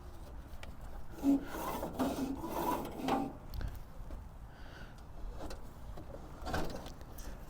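Blade tension handle on a Frontier OS23 band sawmill being turned by hand to slacken the band blade: an irregular scraping and rubbing with a few knocks, busiest from about one to three seconds in.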